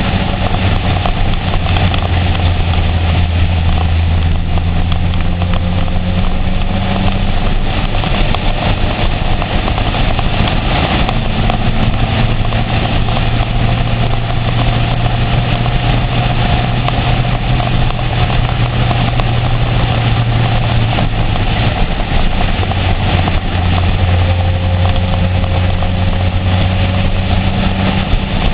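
Honda CBR900RR's inline-four engine running at a steady cruise under a constant rush of wind and road noise. The engine note rises a little about eleven seconds in and drops back about ten seconds later.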